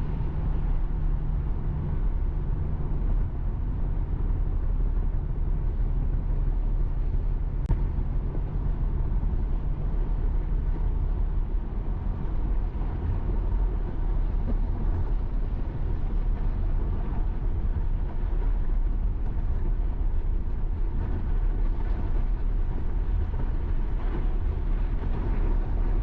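Steady road and tyre noise heard inside an electric Tesla Model Y cruising at highway speed in heavy rain, with the hiss of rain and spray on the car. There is no engine sound.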